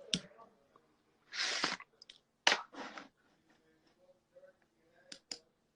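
Quiet eating sounds close to the microphone: a short breathy hiss, a sharp crunch with a hiss after it, and two small clicks near the end.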